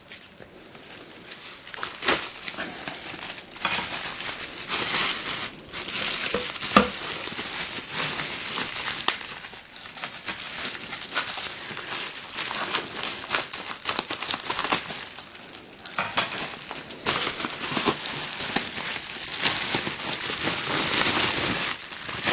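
Plastic packaging crinkling and rustling as it is handled and opened, in irregular stretches with a few sharp clicks.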